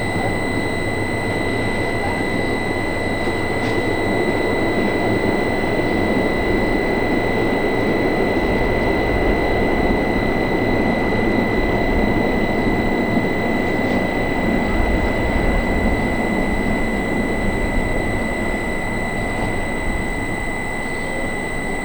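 Rhaetian Railway electric train running, a steady rushing rumble that builds a few seconds in and eases near the end, over a constant high-pitched whine.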